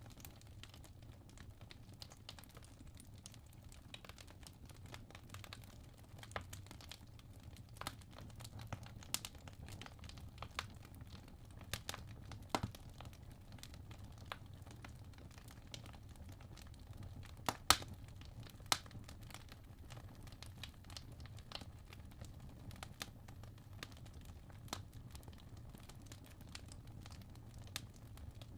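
Wood logs burning in a fireplace: irregular crackles and sharp pops over a low, steady rumble of the fire, with a few louder pops in the middle.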